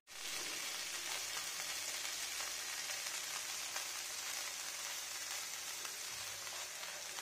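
Paneer cubes sizzling steadily in ghee on a flat tawa: an even frying hiss that starts suddenly, with a few faint clicks.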